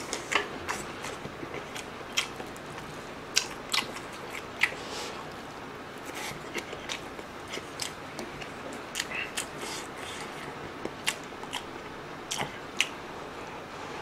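A person chewing and eating army base stew (budae-jjigae) close to the microphone, with irregular wet mouth clicks and smacks scattered throughout.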